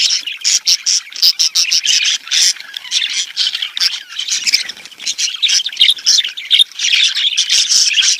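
Budgerigars chattering: a dense, unbroken stream of rapid chirps, warbles and squawks, the busy chatter used to stimulate budgies to breed.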